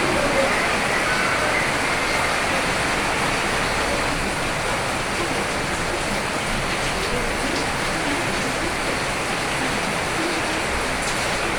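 Rain falling, a steady even hiss of drops with no letup.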